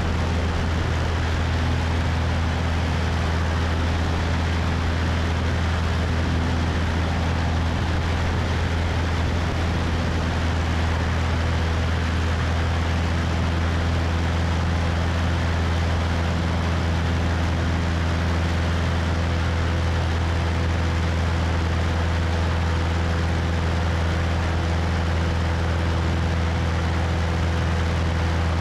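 Cessna 172's piston engine and propeller droning steadily in flight, a strong low hum with wind rushing over the wing-mounted microphone.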